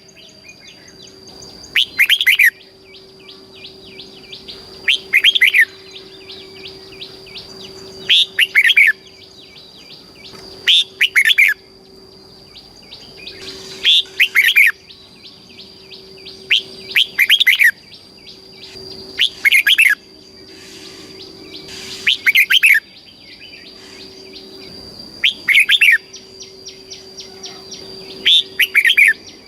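Red-whiskered bulbul singing its short, loud whistled phrase over and over, about ten times, roughly every three seconds, the song used to train and excite caged bulbuls. A faint steady high tone runs underneath.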